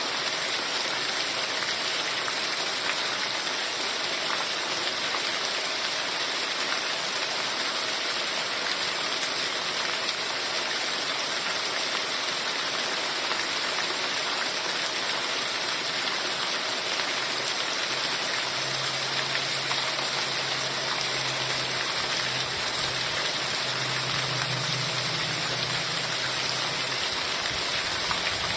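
Heavy rain falling steadily, an even hiss with no breaks. A faint low hum comes in about two-thirds of the way through and fades out again near the end.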